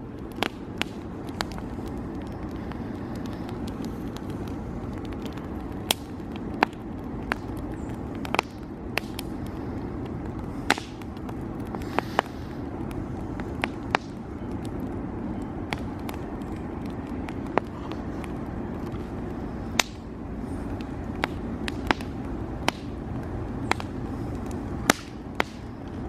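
Wood campfire crackling: sharp, irregular pops, about one or two a second, over a steady low rushing background.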